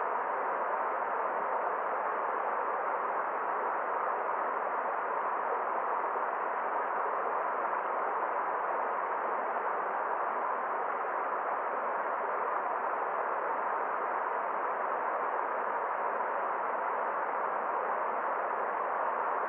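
Forest stream flowing: a steady, even rush of water that does not change, with no splashes or other sounds standing out.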